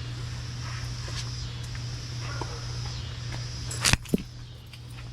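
Toyota 4.7-litre V8 idling with its exhaust freshly cut open, a steady low hum that is still fairly quiet. Two sharp knocks close together about four seconds in.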